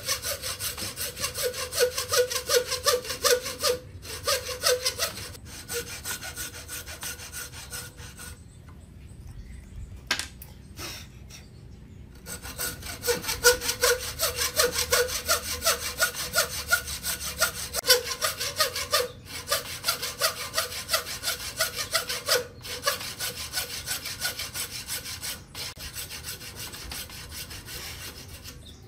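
Hand saw cutting wood in quick, even back-and-forth strokes, stopping briefly a few times and pausing for a few seconds about a third of the way through before sawing on.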